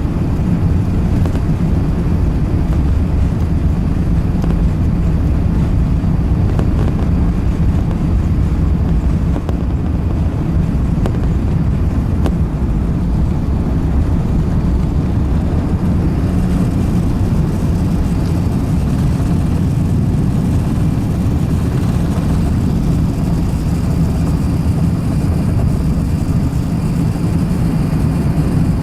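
Steady low drone of an Airbus A380-861's Engine Alliance GP7200 turbofans and airflow, heard inside the passenger cabin under high power.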